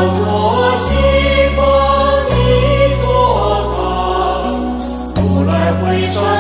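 Buddhist devotional song in praise of Guanyin: a choir singing over long sustained bass notes that change every second or two, with a regular beat of light percussion.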